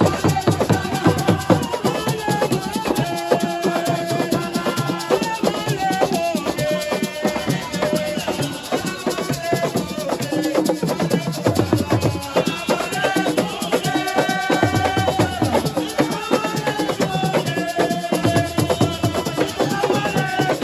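Assiko music: fast, dense drumming and shaken percussion under group singing.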